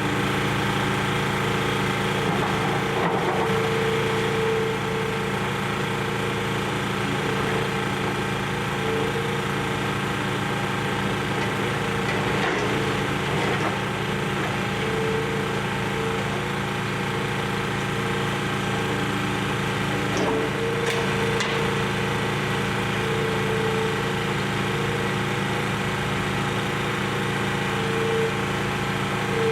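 Demolition excavator's diesel engine running steadily, with a higher hydraulic whine that comes and goes as the machine works, and a few faint cracks of breaking building material.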